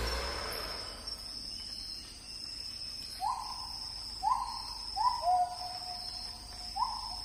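Forest birdsong: a bird gives about six short whistled notes at irregular spacing, starting about three seconds in. Behind them insects keep up a thin, high, steady trill.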